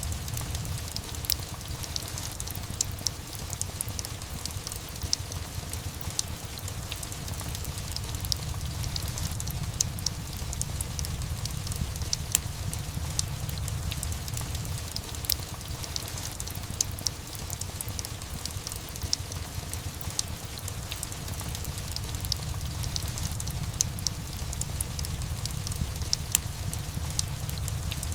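Steady rain and a crackling wood fire: frequent sharp crackles and pops over a continuous hiss, with a steady low rumble underneath.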